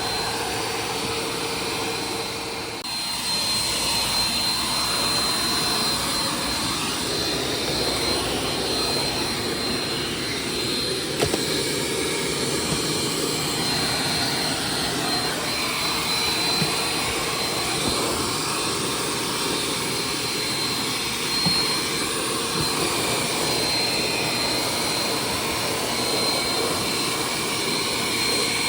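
Vacuum cleaner running steadily with a constant high whine; the sound dips briefly about three seconds in and then carries on.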